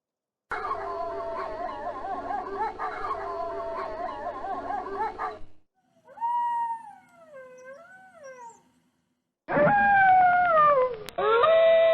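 Wolves howling. First comes a pack chorus of many overlapping, wavering howls for about five seconds, then a lone howl that falls and rises again, then another howl that slides down and holds steady near the end. Each section starts and stops abruptly, with short silences between them.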